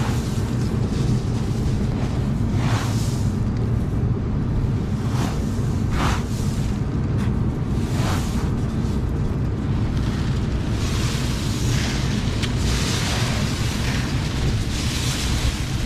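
Combine harvester running during corn harvest: a steady low engine and machinery drone, with several brief swells of higher hiss over it.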